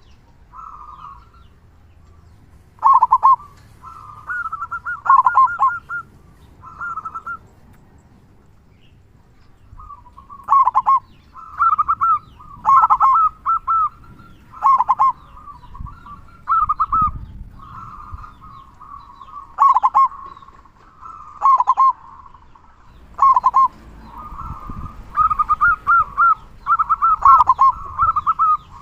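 Zebra dove (perkutut) cooing: repeated short, rolling, stuttering coo phrases about every one to two seconds, each closing on the big 'kung' note of the local singing type.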